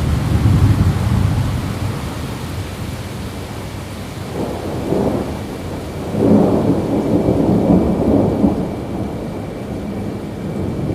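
Steady rain with rolling thunder: a low rumble at the start, a short swell about four and a half seconds in, then a longer, louder roll from about six seconds that fades over two seconds or so.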